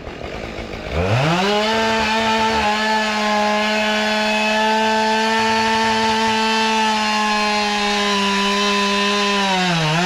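Chainsaw spinning up quickly about a second in and then running at a steady high pitch while cutting through a downed tree. Near the end its pitch dips briefly as the chain bogs in the wood, then recovers.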